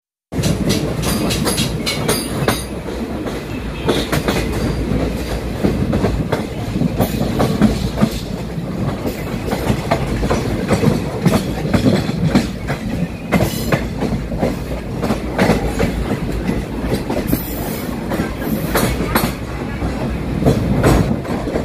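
A moving train heard from on board: a steady low rumble of the running wheels, with irregular clacks as they pass over rail joints and turnout points.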